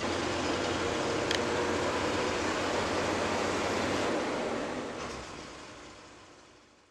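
Train running: a steady rumble and rattle, with one sharp click a little over a second in, fading out over the last two seconds.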